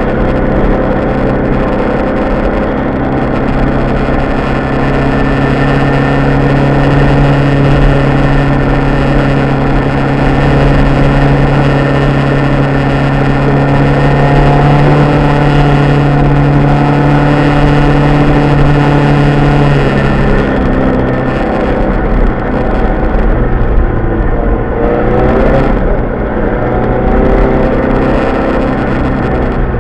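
BMW 318i rally car's engine running hard at steady high revs, heard from inside the cabin over constant road and tyre noise. About two-thirds of the way in the steady note breaks off, and the engine then rises again in short sweeps in pitch.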